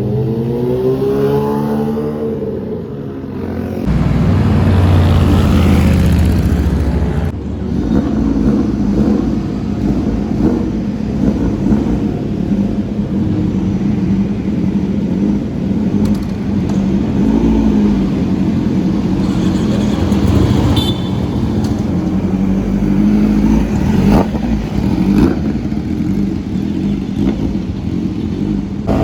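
Sports car and superbike engines running and revving, a dense steady engine din with occasional brief revs.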